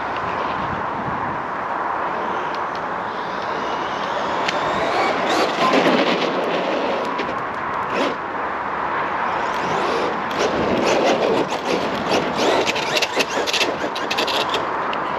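Radio-controlled truck driving over rough ground: its motor runs while tyres and chassis scrape and clatter, with many sharp knocks in the second half.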